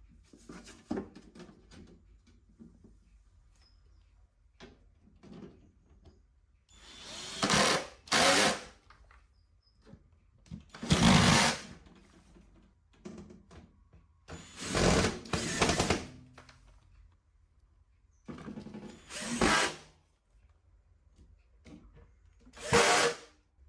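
A small electric motor, such as a power tool, running in five short bursts of about a second each, a few seconds apart, with light handling clicks in between.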